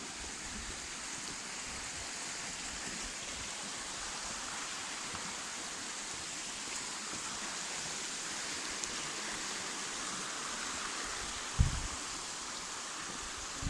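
Steady hiss of a stream's running water. A single brief low thump sounds near the end.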